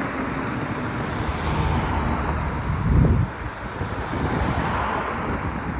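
Cars passing on a four-lane highway, a steady rush of traffic noise, with wind buffeting the microphone and a brief louder low rumble about three seconds in.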